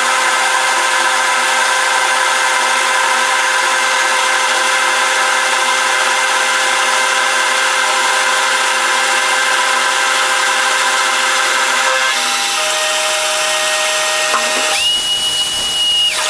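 Power tool running steadily while working steel, a mix of motor tones over a cutting hiss; its tone shifts about twelve seconds in, and a high steady whine sounds for about a second near the end.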